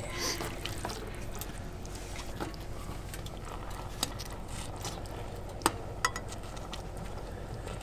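Tomato sauce simmering quietly in a pot on a wood stove, a low steady sizzle, with a few sharp clicks in the second half.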